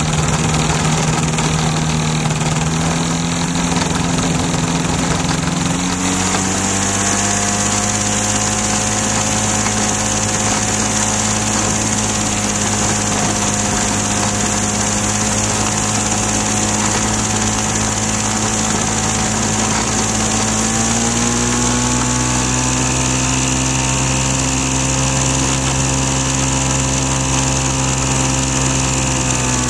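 Flightstar II light sport aircraft's engine running steadily, stepping up in speed about six seconds in and again about twenty-one seconds in, with a steady high hiss over it.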